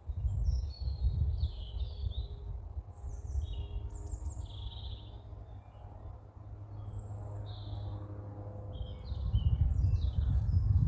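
Small birds chirping and twittering, many short calls scattered throughout, over a low rumble on the microphone that grows louder near the end.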